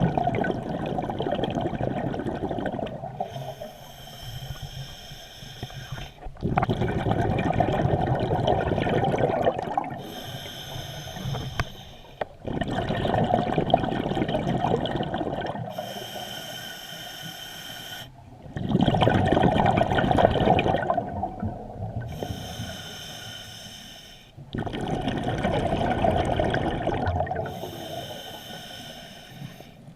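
A scuba diver breathing through a regulator underwater, about five breaths: each inhale is a hissing draw with a whistling tone, each exhale a loud rush of bubbles.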